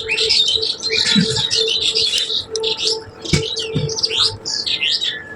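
Many small birds chirping and chattering at once, a dense run of short, quick calls with no pause.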